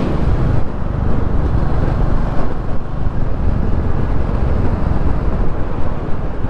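Royal Enfield Classic 350's single-cylinder engine running steadily at motorway cruising speed, with wind rushing over the microphone.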